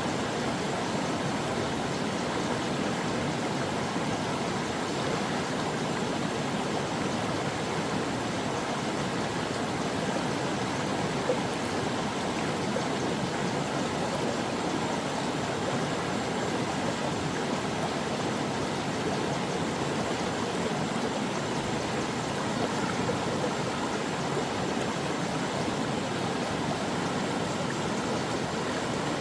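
Stream water flowing and rushing over rocks, a steady, unbroken rush.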